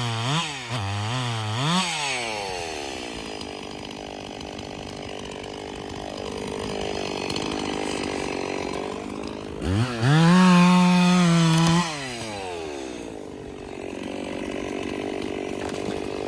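A two-stroke chainsaw is blipped up and down several times, then settles lower. About ten seconds in it is held at full throttle for about two seconds, which is the loudest part, and then drops back.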